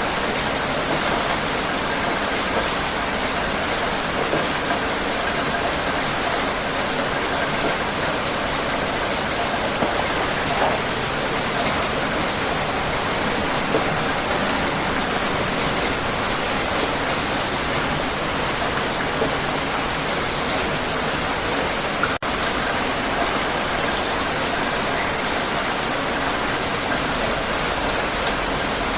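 Heavy rain falling steadily: a dense, even hiss of drops on surfaces. There is a split-second drop in level about three-quarters of the way through.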